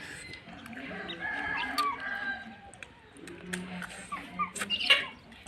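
A rooster crowing, one drawn-out call, over scattered sharp clicks; a louder, short, harsher outburst comes near the end.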